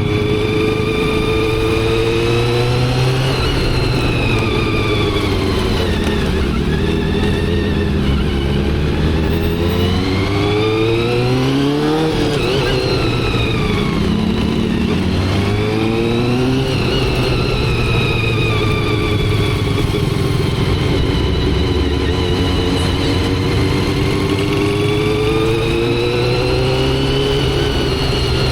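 Motorcycle engine running under way. Its pitch climbs twice in the middle, each climb cut off by a gear change, then it runs at a steadier speed with gentle rises and falls.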